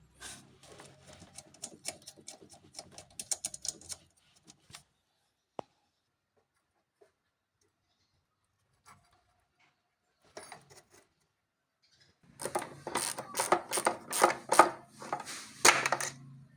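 Hand ratchet wrench clicking in quick runs as the throttle body bolts are tightened on the intake. There are two spells of rapid clicking, one at the start and a louder one from about twelve seconds in, with near silence and a few lone clicks between.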